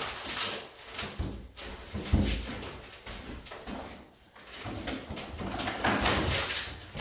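Pickaxe being worked into a wooden cabinet to tear it out: irregular knocks with creaking, scraping wood. The longest stretch of the sound comes in the second half.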